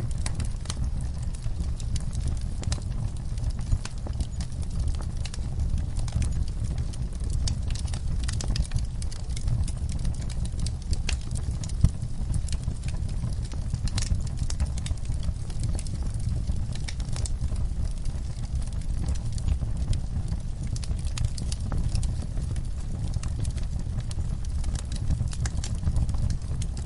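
Wood fire burning in a fireplace: a steady low rumble of flames with frequent small crackles and pops, one sharper pop about halfway through.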